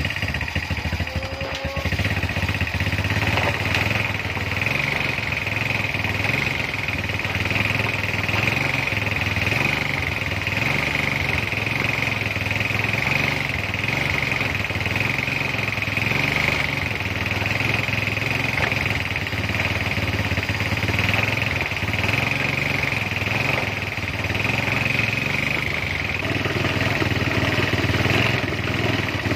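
Es puter ice cream machine running: its motor and gearbox drive the churning drum and two-way stirrer in a steady mechanical drone, with a low hum that wavers in a slow, repeating cycle and a higher whine over it.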